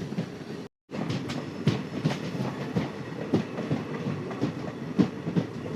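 Passenger train running, heard from the coach: a steady rumble of the wheels with irregular sharp clicks as they pass over rail joints. The sound drops out briefly about a second in.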